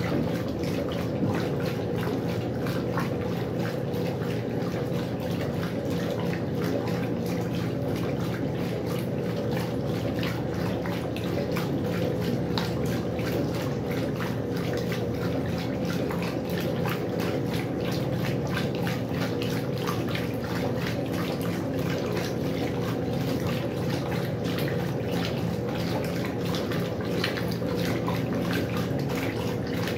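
Westinghouse washing machine running, with water splashing and churning over a steady motor hum.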